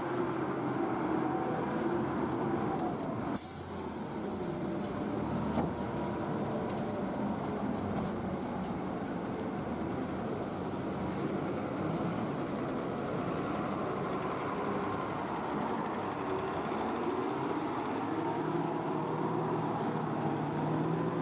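Tipper truck's diesel engine running steadily, with the background noise changing abruptly about three seconds in.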